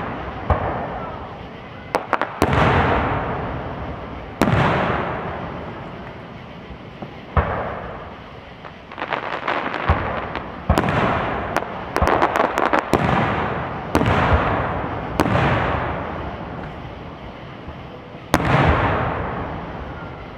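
Aerial fireworks shells bursting one after another, a dozen or so loud bangs, each trailing off in a long rolling echo over a second or two. Around the middle there are runs of quick crackling pops.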